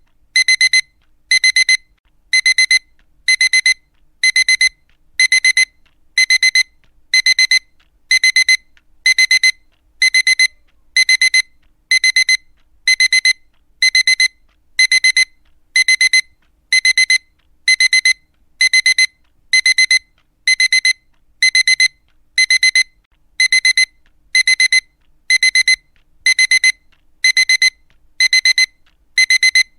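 Digital alarm clock beeping: short groups of rapid, high-pitched beeps, repeating about once a second without letting up.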